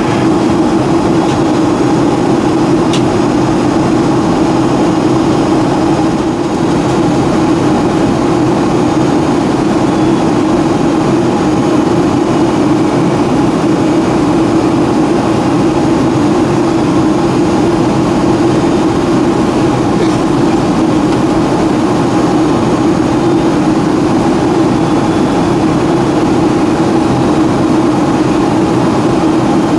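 Steady cabin noise of a Boeing 757-200 in flight: the even rush of engines and airflow with a strong, steady hum underneath, unchanging throughout.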